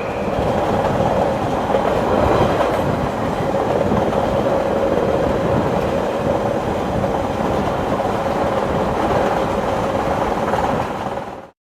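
A train running along the rails, a steady rumble that cuts off suddenly near the end.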